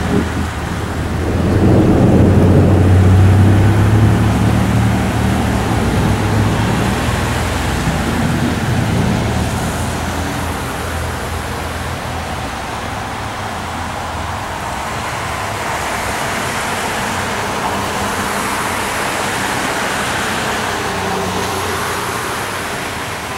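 A long rumble of thunder that swells about a second in and fades slowly, over the steady hiss of heavy rain.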